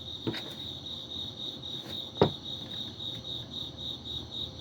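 Crickets chirping in a steady, high, pulsing trill, with a sharp tap about two seconds in.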